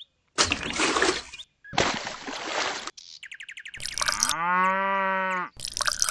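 A cow moos once, a single drawn-out call a little over a second long starting about four seconds in. Before it come two short hissing bursts and a quick rattling chirp.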